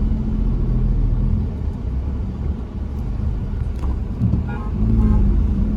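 Motor vehicle engine running steadily with low road rumble while driving along a hill road.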